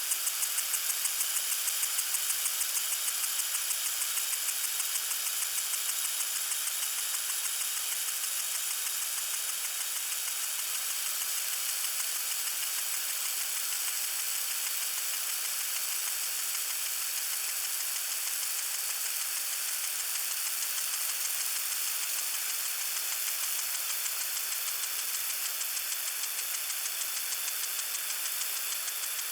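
Lawn sprinkler spraying water: a steady hiss of spray with a fast, even ticking running through it.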